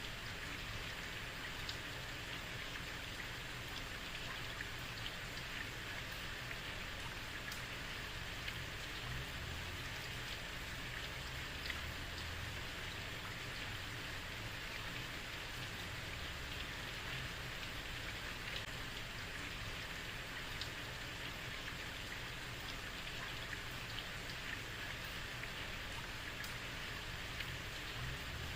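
Heavy rain falling on a street: a steady hiss of rain with scattered sharper drop ticks and a low rumble beneath.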